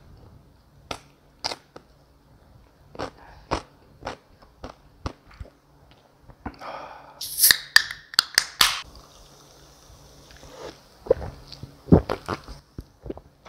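Close-miked mukbang eating sounds: a man chewing and biting crispy fried pork, with a run of sharp crunches and mouth clicks that is loudest just past the middle. Near the end he drinks from a cup.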